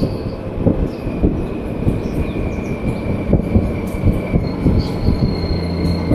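Motorcycle running steadily in third gear at about 25 mph through the Anton Anderson tunnel, a single-lane road and rail tunnel, with rumbling and many small knocks from the tyres over the track bed. The engine's low drone grows steadier and stronger about five seconds in.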